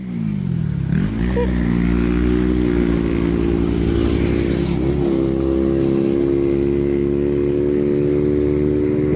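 An engine running: its pitch dips during the first second, climbs back, rises a little again about five seconds in, then holds steady.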